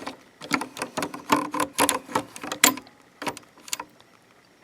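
Janome ME4014 sewing machine's pattern-selector mechanism clicking as it is worked by hand, a run of irregular sharp clicks that thin out near the end.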